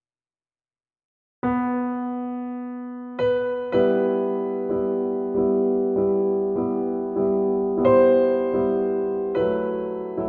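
Background music on a piano-like keyboard: after about a second and a half of silence, a note sounds and rings, then a steady pattern of struck notes and chords follows, about one every 0.6 seconds.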